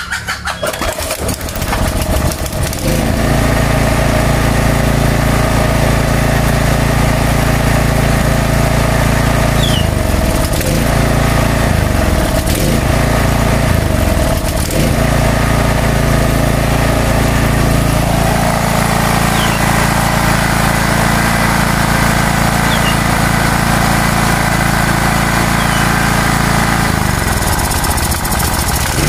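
Small gasoline generator engine, hard to start, started with the choke on: it catches in the first couple of seconds and then runs, its speed sagging and recovering a few times.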